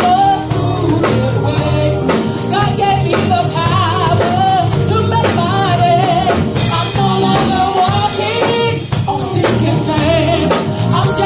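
Live gospel music: a woman's lead vocal singing with sliding runs over a full band with bass and a steady drum beat.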